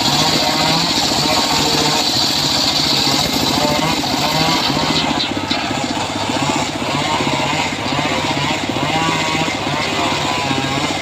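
Engine of a homemade circular sawmill running steadily, with a wavering higher whine over it.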